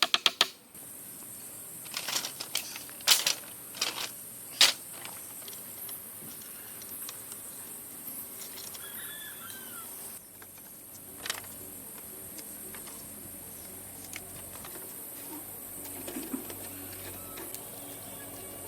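Five or six sharp knocks in the first few seconds and one more near the middle, over a steady high hiss, with a brief bird chirp about nine seconds in.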